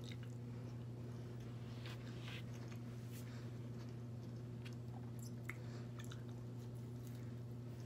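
Faint, close-up chewing and soft mouth clicks of a person eating rice and sausage, over a steady low hum.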